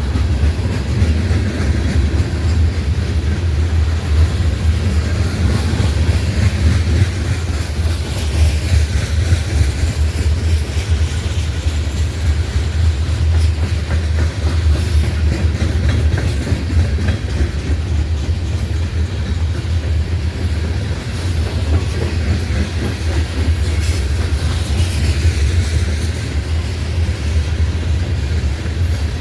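Freight train rolling past on the rails, a steady low rumble throughout.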